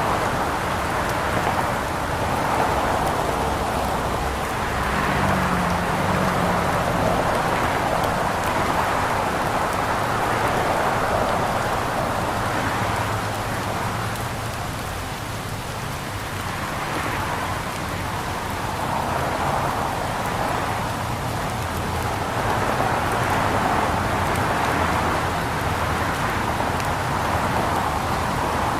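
Steady rain falling, an even hiss that swells and eases a little, with a faint low hum in places.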